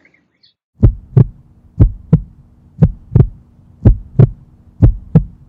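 A heartbeat sound, paired lub-dub thumps about once a second over a steady low hum, starting about a second in.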